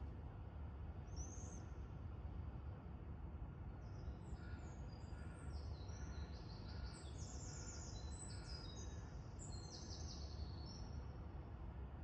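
Small songbirds singing high, quick trilled phrases from about four seconds in until near the end, with a single short chirp about a second in, over a steady low background rumble.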